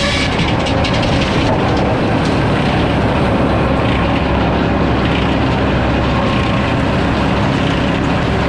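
Sawmill machinery running steadily with a loud rumble and rattle. At the start the high hiss and whine of the blade in the cut drops away, leaving the lower machine noise.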